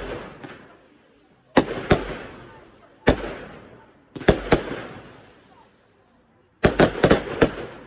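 Fireworks going off in a series of sharp bangs, each followed by a crackling, echoing tail. They come in groups every second or two, with a rapid volley of about five bangs near the end.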